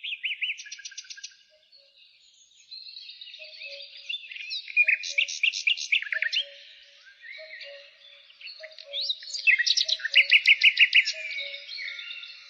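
Several wild birds singing together: high chirps and whistles with bursts of fast, rapid-note trills, loudest about five seconds in and again about ten seconds in. Under them, a lower two-note call repeats steadily.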